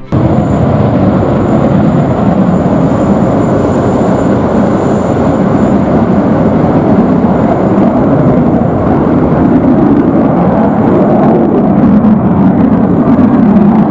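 Boeing F-15QA twin-engine fighter jet at high power: a loud, steady, dense rumbling jet noise with a faint thin high whine over it.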